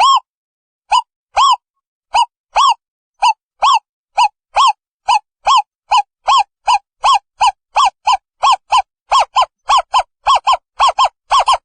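An owl calling in a series of short hooting notes, each rising and falling in pitch. The series starts at about two notes a second and speeds up to about four a second towards the end.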